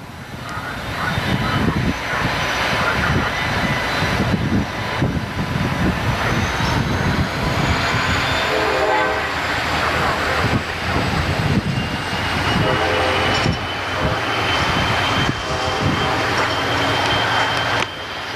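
Passenger train rolling past at speed: a steady roar of wheels on rail, with a thin high whine running through it.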